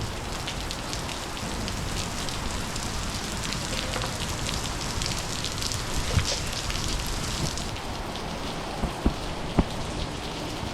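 Monsoon rain falling steadily, with a dense spatter of individual drops and a few sharper drop knocks near the end.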